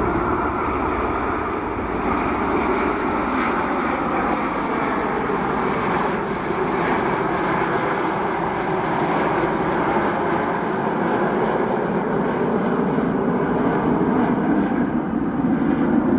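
Airplane engine noise, steady and loud, growing a little louder near the end as the aircraft passes.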